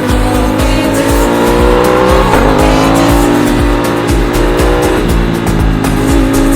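Aprilia RS660's parallel-twin engine pulling under acceleration, its pitch rising, then dropping sharply about two seconds in as it shifts up a gear and climbing steadily again.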